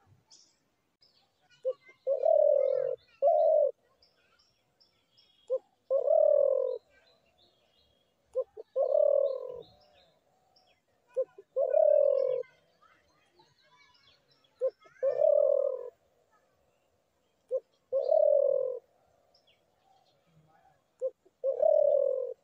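Spotted dove cooing: seven repeated phrases, each a short note followed by a longer, lower coo, about every three seconds.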